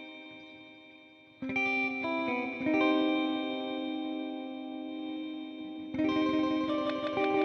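Electric guitar, a Fender Jazzmaster Modern Player, playing chords through a Nux Time Core delay pedal and a simulated Fender '65 Twin Reverb amp. A ringing chord fades out, then new chords are struck about a second and a half in, near three seconds and about six seconds in, each left to ring on.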